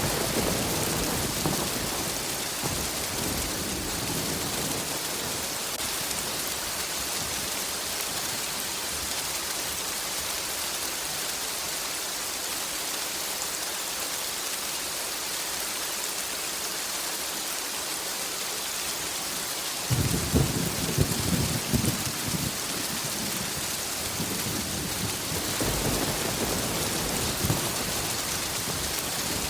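Steady rain hissing throughout a thunderstorm. A thunder rumble dies away in the first seconds; about two-thirds of the way in a loud crackling thunderclap breaks out suddenly and rolls for a few seconds, and a weaker roll of thunder follows near the end.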